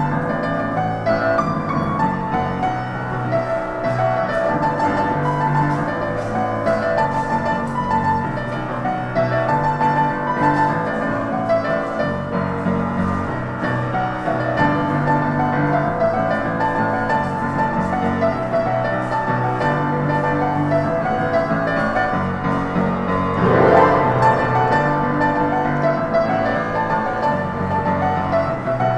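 Street piano played at a very fast tempo: quick runs of notes over a repeating bass pattern, with a brief louder swell near the end.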